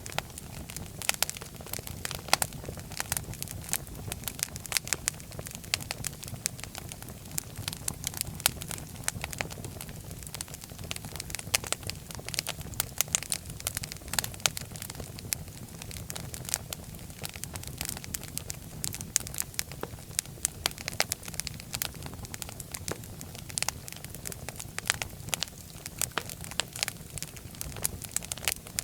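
Wood fire in a fireplace crackling steadily, with many sharp pops and snaps over a low rumble of the flames.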